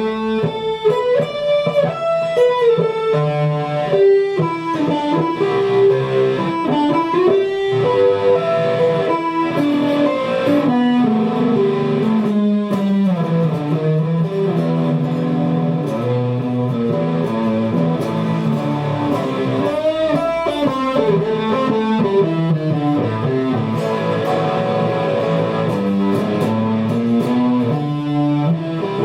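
Guitar music: a plucked, melodic guitar line of many notes playing continuously.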